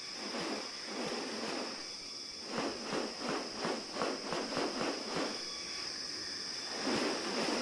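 Insects drone steadily at a high pitch in the rainforest. Through the middle there is a run of about eight quick rustling crunches, roughly three a second, with more rustling near the start and the end.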